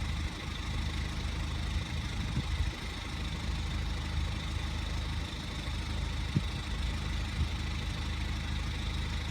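A motor vehicle's engine idling steadily with a low, even hum.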